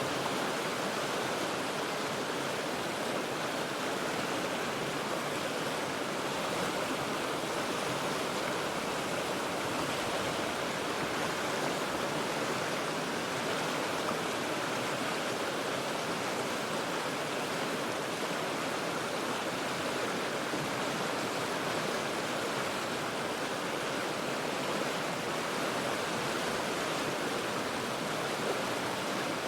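The Cheat River flowing over rocks: a steady, unbroken rush of water that does not change.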